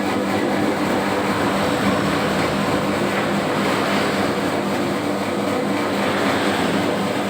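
Homemade 3 kg donut dough mixer running with its lid closed, kneading a batch of dough: a steady motor hum under a loud, rough churning noise that holds level throughout.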